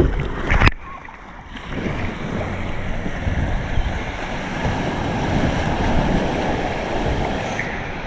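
Ocean surf and rushing water with wind buffeting the microphone. Two sharp splashing knocks come in the first second, then the wash of water builds for several seconds.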